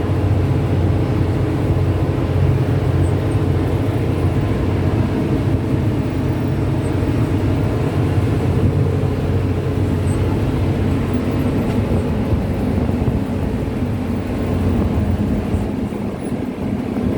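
Passenger train running: a steady low rumble of wheels and running gear that holds throughout and eases slightly near the end.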